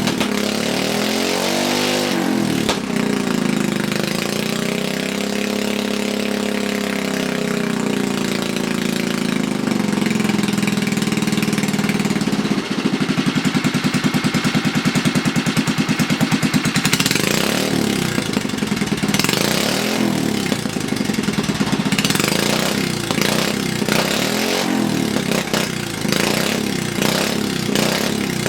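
Briggs & Stratton 3 HP single-cylinder four-stroke engine running through a short homemade header pipe, revved up and down: a slow rise and fall, a few seconds held high and steady near halfway, then a string of quick revs.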